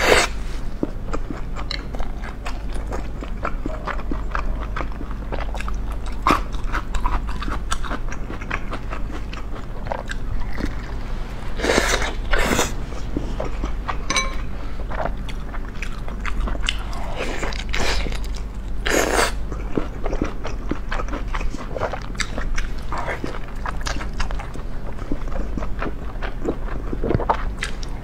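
Close-miked chewing and biting of a large steamed bun, with steady small wet clicks of the mouth. A few louder hissy mouth sounds come around the middle, over a steady low hum.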